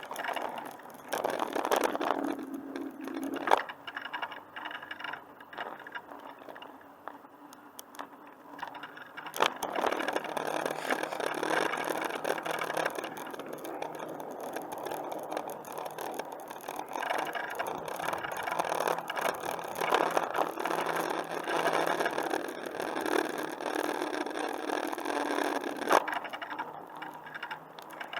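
A bicycle being ridden on a paved trail: tyre and drivetrain noise with light rattling, stronger for most of the second half and easing off near the end.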